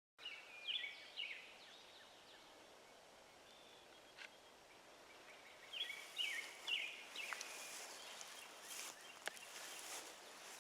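Small birds chirping: a quick run of short notes right at the start and another about six seconds in, over a faint steady hiss, with a few small clicks.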